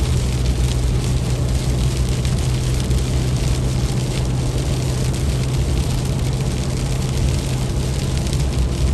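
Steady low rumbling noise of a moving vehicle, like engine and road noise heard from inside a car.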